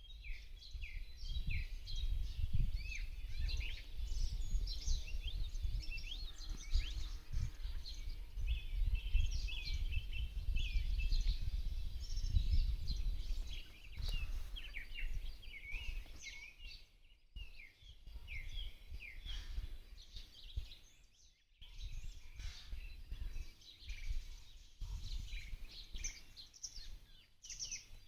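Several small songbirds singing and chirping together in a spring forest, their quick overlapping high trills and chirps, over a steady low rumble. The sound briefly drops away twice, in the middle and a little later.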